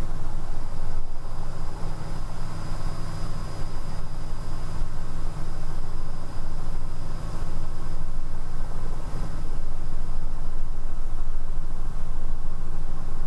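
Robinson R66 helicopter's turbine engine and rotors running just after lift-off, a steady low drone with a thin high whine above it.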